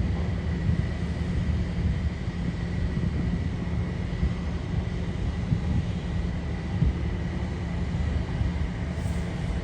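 Jet airliner engines at an airport: a steady low rumble with a faint thin whine held above it.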